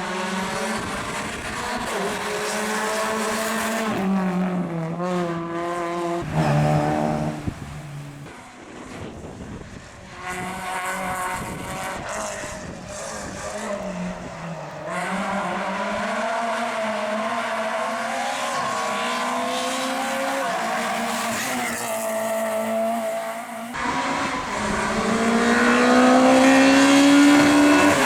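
Rally cars at speed on a stage: engines revving hard and rising and falling in pitch through gear changes, lifting off and pulling again, with some tyre squeal. Several passes follow one another with abrupt cuts between them, and a car accelerating hard near the end.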